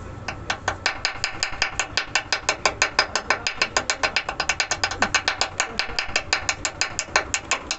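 Rapid, even mechanical clicking, about eight clicks a second, starting just after the beginning.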